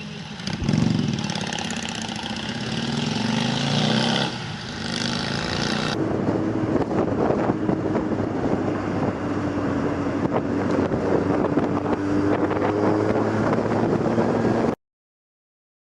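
Vehicle engine speeding up, then running steadily with road and wind noise. The sound changes abruptly about six seconds in and cuts off suddenly near the end.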